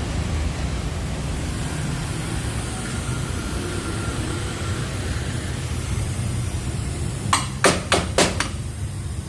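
A steady low rumble, then four quick sharp knocks in under a second near the end.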